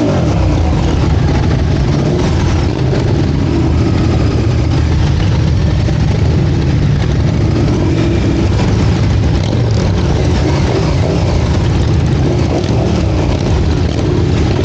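Motorcycle engine idling steadily, with no revs or sudden changes.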